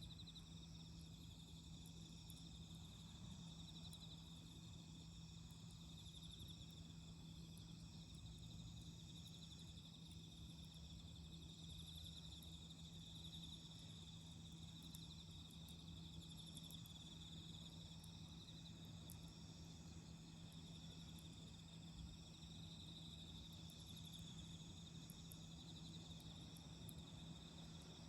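Faint, steady high-pitched trilling of autumn crickets, with a few faint crackles from the wood campfire and a low steady hum underneath.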